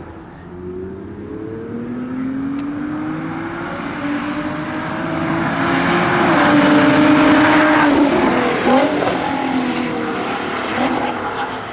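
Nissan GT-R R35's straight-piped twin-turbo V6 under hard acceleration on track. Its note climbs in pitch and grows loudest past the middle, dips sharply about eight seconds in, then picks up again and fades.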